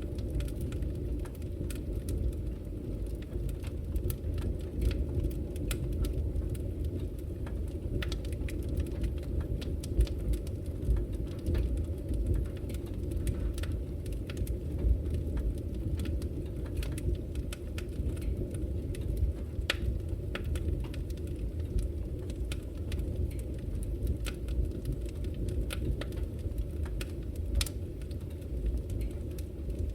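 Wood fire burning in a fireplace: a steady low rumble of the flames with frequent, irregular crackles and pops of the burning logs.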